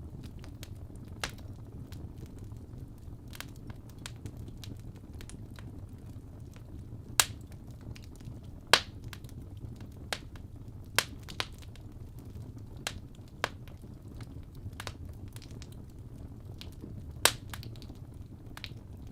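Wood fire burning in a fireplace: a steady low rumble of flames with irregular sharp crackles and pops from the logs, a few of them much louder than the rest.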